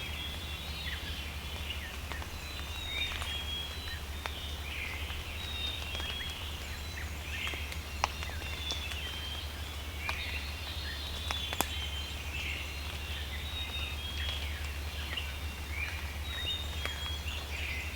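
Small songbirds chirping and calling in the early-morning woods: many short, high calls scattered throughout, over a steady low hum.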